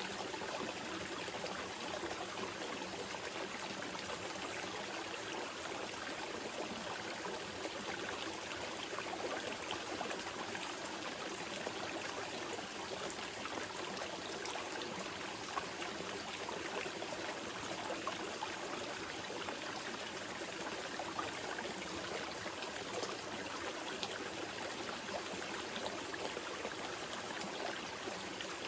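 Small mountain river flowing gently over rocks: a steady rush of water with fine splashing and trickling.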